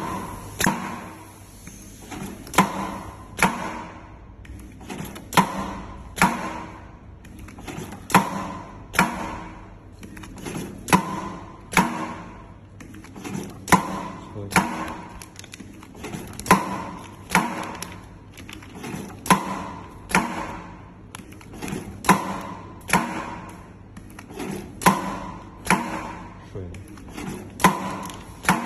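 Ultrasonic handbag sewing machine running in repeated cycles: a sharp clack about once a second, with lighter clicks between, over a thin high whine.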